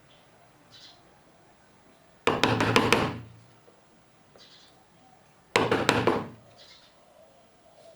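Rapid knocks of a hand tool striking pine wood, in two quick bursts of several strikes each, about two seconds in and again near the six-second mark.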